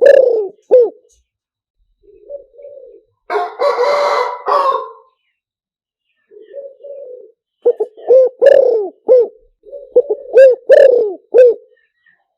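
Spotted dove cooing: phrases of low, arching coo notes, a soft short coo about two seconds in and another at six seconds, then a run of loud coos from about eight seconds to near the end. This is the male's advertising call, the kind played as a decoy to lure wild doves to a trap. About three seconds in a harsher, noisier call lasts a second and a half.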